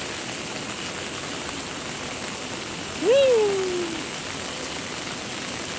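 Steady heavy rain falling. About three seconds in, a single short voiced call rises quickly and then slides down over about a second.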